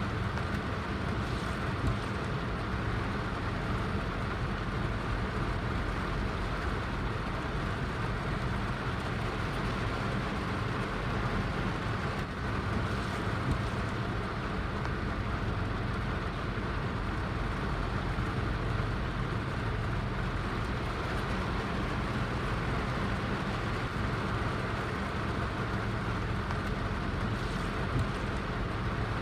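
Heavy rain falling steadily: an even hiss with a low rumble underneath, unchanging throughout.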